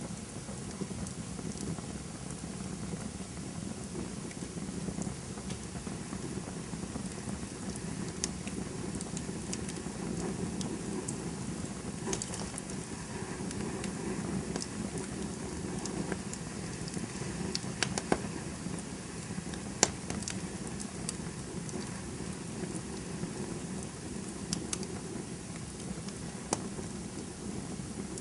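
Campfire burning with a steady low rush of flames and scattered sharp crackles and pops of burning wood, a few louder pops standing out in the second half.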